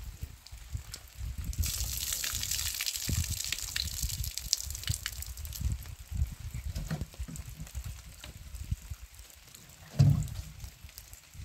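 Rain falling and dripping, with a louder rush of pouring or splashing water about two seconds in and a low thump about ten seconds in.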